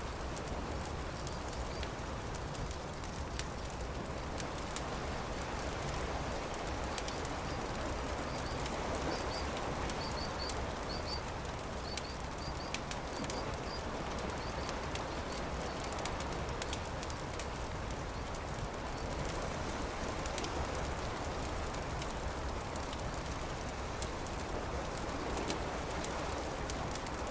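Campfire crackling with scattered sharp pops over a steady low background rush. A small bird chirps in short repeated notes about a third of the way in.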